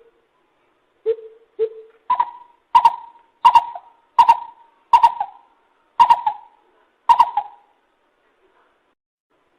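Lesser coucal calling: two low hollow notes, then a run of seven higher, louder hooting notes at an even pace of a little under one and a half per second.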